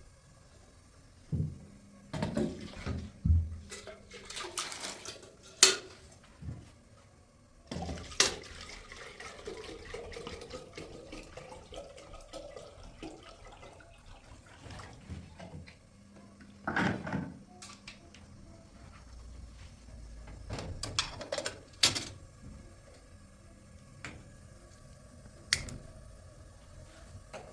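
Scattered knocks and clinks, like dishes and pots being handled, with a stretch of water-like noise about a third of the way in.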